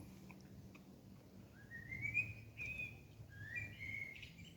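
A bird singing: two short whistled phrases about a second apart, each rising in pitch and then holding.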